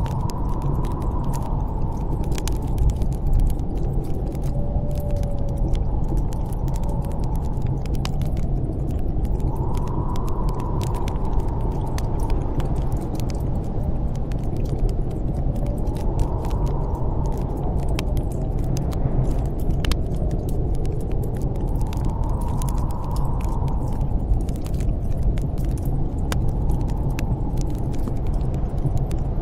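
Snowstorm wind blowing steadily, swelling in gusts every six or seven seconds, with a brief faint whistle about five seconds in. Over it, a wood fire crackles with many small sharp pops.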